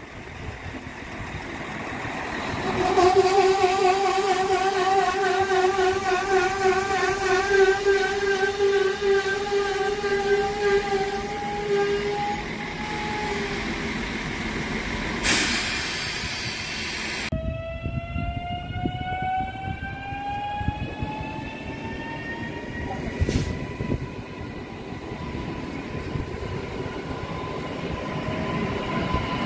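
Regional passenger trains at a platform. A class SA134 diesel railcar rolls past with a warbling, steady running tone, broken by a short loud rush of noise. Then a multiple unit pulls away with a whine that rises in pitch for several seconds and then holds steady.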